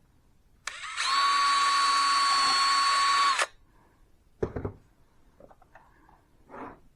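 An electric drill's motor runs at a steady speed for about three seconds with a level whine, then stops. A sharp knock follows, then a few small knocks.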